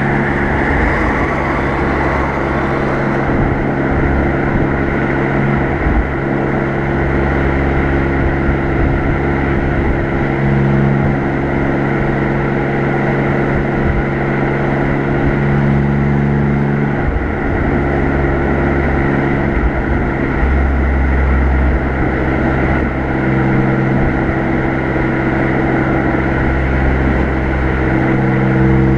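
Alfa Romeo Giulia Quadrifoglio's twin-turbo V6 exhaust at an easy, steady cruise, heard close behind the car, swelling slightly and easing off every few seconds under constant road and wind noise.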